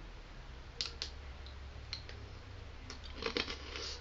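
Crisp crunches of a small Japanese rice cracker being chewed: a few single crunches about a second in, then a quick cluster near the end.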